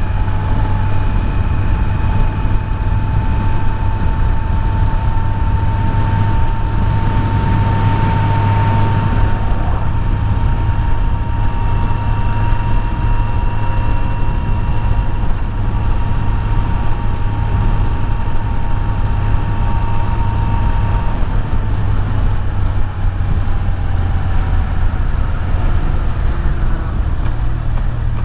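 Kawasaki Z900's inline-four engine running at a steady cruise under wind noise, its pitch easing down a little about three-quarters of the way through.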